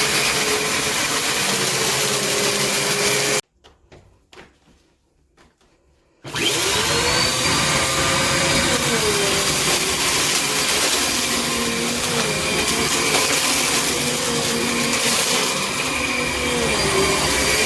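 Small Bissell upright vacuum cleaner running, its motor pitch wavering as the load changes. It cuts out abruptly a few seconds in, leaving near silence with a few faint clicks. About three seconds later it starts up again with a rising whine as the motor comes up to speed, then runs on steadily.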